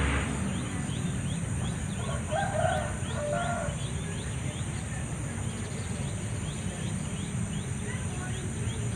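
A distant rooster crowing once, about two seconds in, in two parts lasting about a second and a half. Behind it, a steady high insect drone and a run of short, repeated falling chirps at about three a second.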